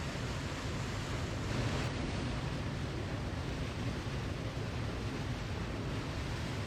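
Waterfall: falling water rushing steadily, with a slight swell in the sound about a second and a half in.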